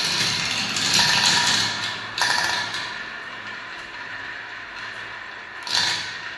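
Balls rolling down a spiral marble-run track: a steady rolling rattle with sharp clacks as they drop and strike the track. It is busiest in the first couple of seconds, eases to a softer roll, and has another clack near the end.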